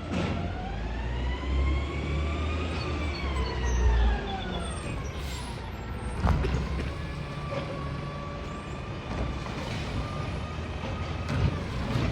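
Garbage truck packing: the engine revs with a low rumble while the hydraulic pump whines. The whine rises in pitch over the first few seconds and falls away, then holds a steadier, quieter tone.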